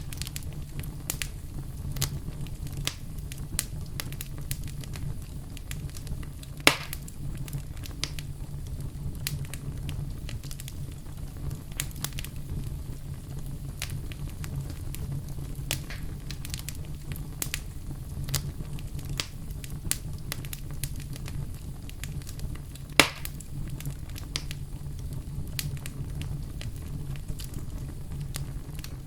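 Wood fire burning in a fireplace, with a steady low rumble of the flames and frequent sharp crackles; two louder pops stand out, about seven seconds in and near two-thirds of the way through.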